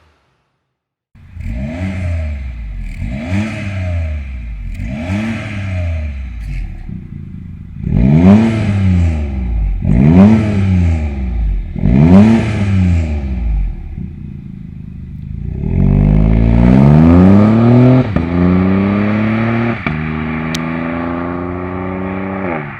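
BMW 120i's B38 three-cylinder turbo engine revved through a DCE Parts valved catback exhaust with quad tips. It gives three short blips, then three sharper revs about two seconds apart, then a longer rev held high for a couple of seconds before the revs slowly fall away.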